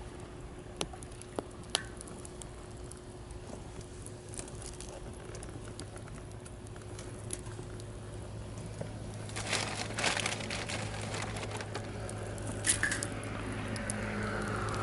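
Wood campfire crackling with scattered sharp pops. In the last third a road vehicle's engine hum rises as it approaches.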